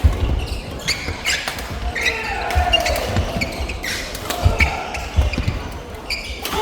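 Badminton rally in a sports hall: sharp cracks of rackets striking the shuttlecock, with shoes squeaking on the court floor between hits, echoing in the hall.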